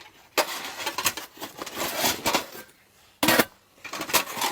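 Irregular knocks and clattering with short gaps, the sharpest burst a little over three seconds in.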